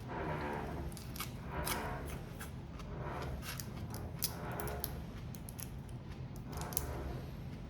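Crab and prawn shells being cracked and cut apart, a quick irregular run of sharp crisp clicks and snaps.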